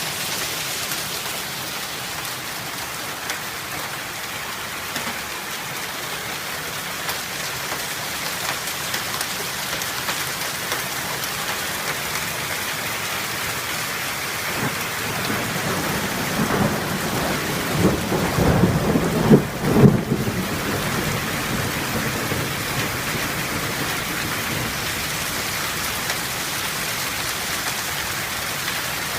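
Heavy hail mixed with rain pelting down in a dense, steady clatter. About two-thirds of the way through comes a louder low rumble lasting a few seconds.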